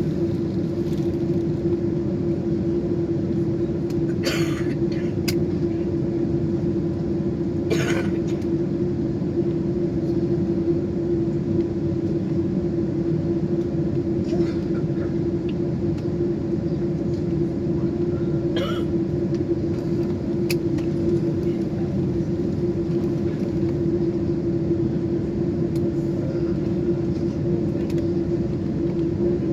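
Steady drone inside the cabin of a Boeing 747 on the ground, a constant low rumble with a steady hum, and a few brief clicks or knocks scattered through it.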